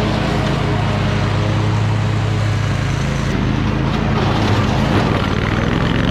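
Toro Titan Max zero-turn mower's engine running steadily at working speed, with an abrupt change in its tone about three seconds in.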